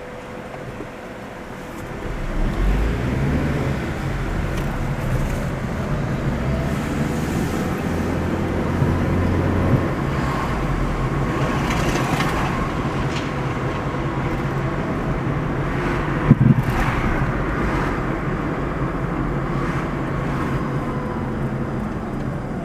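Car driving: steady engine and road noise that gets louder about two seconds in, with a short thump a little past the middle.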